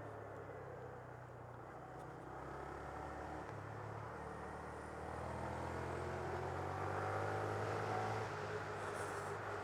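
Honda Grom's 125 cc single-cylinder four-stroke engine running on the move, with road noise. Its pitch and loudness rise about halfway through as the bike speeds up.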